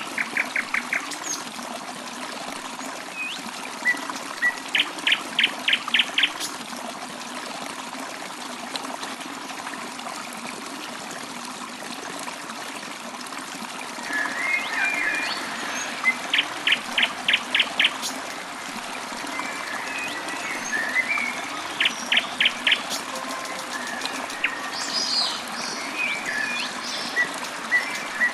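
Small stream trickling steadily while birds call over it. One bird gives quick runs of five or six short identical notes, repeated several times, among scattered chirps.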